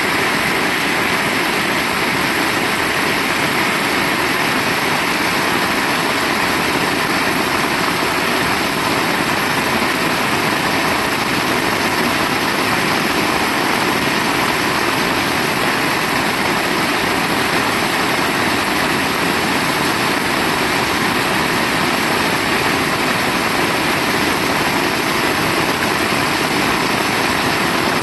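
Heavy rain falling in a steady, dense hiss that does not change.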